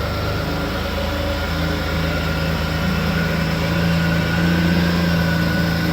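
1987 Ferrari Testarossa's flat-12 engine idling steadily just after a start, its low note settling in about a second and a half in.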